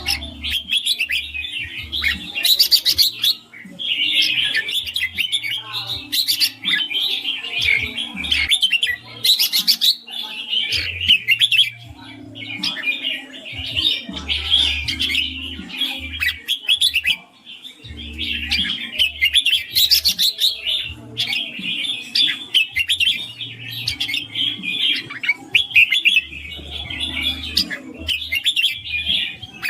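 Red-whiskered bulbul singing: a fast run of bright, chattering warbled phrases, broken by short pauses every few seconds.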